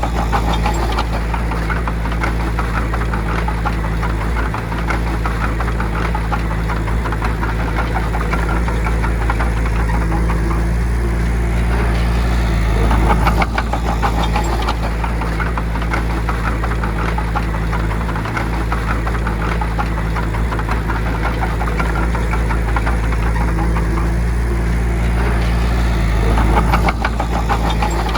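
Bulldozer's diesel engine running steadily with a rapid clatter, swelling briefly in loudness about halfway through and again near the end.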